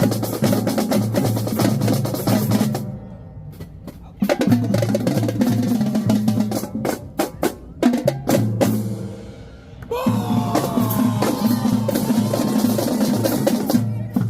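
Marching drumline playing snare and bass drums in a fast cadence. It drops off twice into quieter pauses, with sharp separate hits between them, then comes back in.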